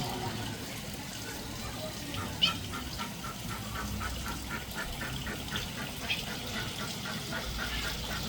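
Steady running water, with a bird calling in a regular series of short notes, about three or four a second, from a couple of seconds in. A single sharp chirp stands out about two and a half seconds in.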